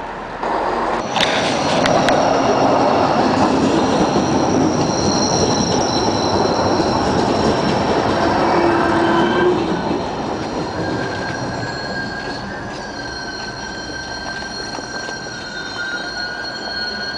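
NordWestBahn diesel multiple unit running past close by along the platform, with thin, high wheel squeal over the running noise. The running noise is loudest for the first ten seconds and then fades as the train moves off, while the squeal carries on.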